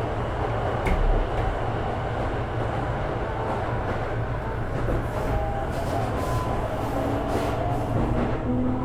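Sotetsu 12000 series electric train running, heard from inside the car: a steady rumble of wheels on rail with a knock about a second in. From about five seconds in, thin gliding tones from its Mitsubishi IGBT-VVVF inverter and traction motors join the rumble.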